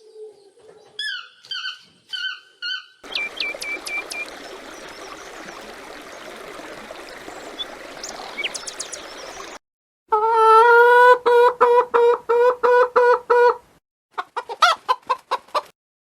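A run of separate bird recordings: short falling chirps, then a stretch of hiss with a few high chirps, then loud rapid repeated clucking calls from domestic fowl, about four to five a second, which start about ten seconds in and come back after a short break.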